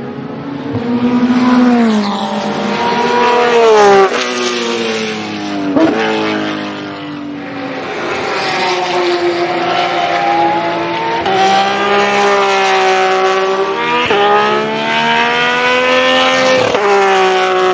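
Porsche 991.2 GT3 R race car's flat-six engine pulling hard, its pitch climbing and then dropping sharply at gear changes several times.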